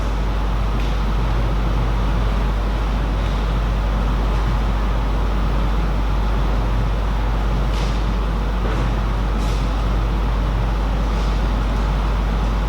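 Steady low hum with a constant noisy rumble over it, and a few faint sharp clicks at irregular moments.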